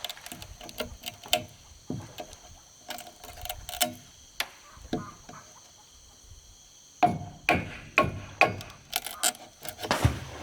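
Irregular knocks and clacks of hand work on wood and bamboo, a few a second, with a lull around the middle. A steady high-pitched hum runs behind.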